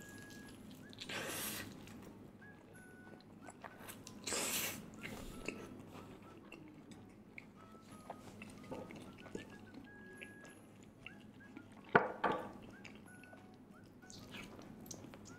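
Eating sounds: crispy air-fried chicken with a Super Ring cheese-snack coating being bitten and chewed, with a few louder crunches, the sharpest and loudest about twelve seconds in.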